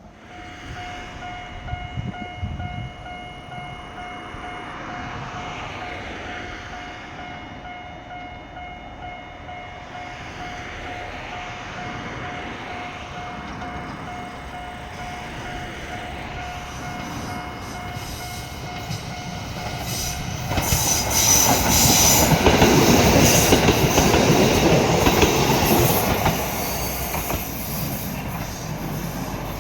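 Shimabara Railway diesel railcar running on the line. A steady whine holds for the first twenty seconds or so, then a louder stretch of wheel and rail noise with clicks lasts about five seconds before easing off.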